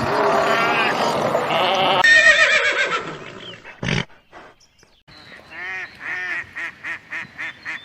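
Animal calls from several spliced clips: pitched calling that changes abruptly about two seconds in, a single knock around four seconds in, then a run of short repeated calls, about three a second, near the end.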